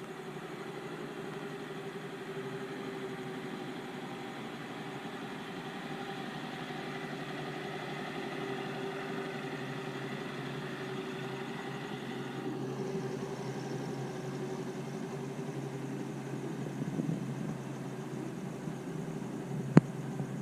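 Motorcycle engine idling steadily, with a single sharp click near the end.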